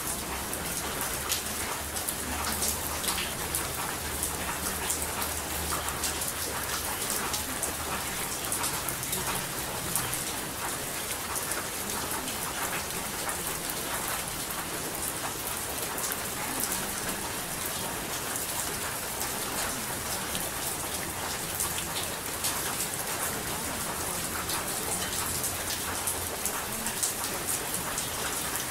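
Steady rain, a dense even patter of drops, with a faint low hum that comes and goes underneath.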